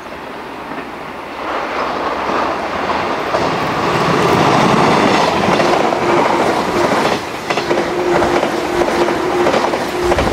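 Cream-and-red JNR limited-express electric train running past at close range, growing louder as it approaches. Its wheels clatter over the rail joints, and a steady whine joins in over the second half as the cars go by.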